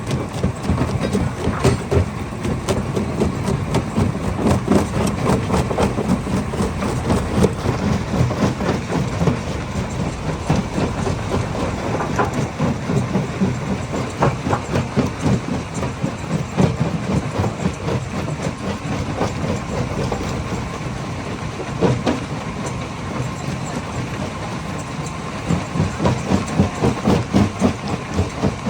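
Hammer crusher running under load, a continuous heavy mechanical rumble with many irregular knocks and clatters as rock is struck and broken inside it.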